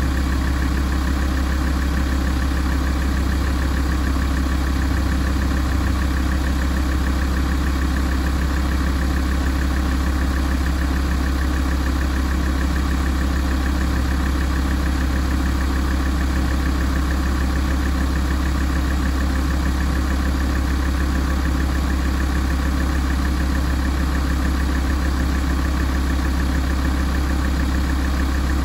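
Alfa Romeo 166 2.4 JTDm five-cylinder turbodiesel idling steadily while it warms up.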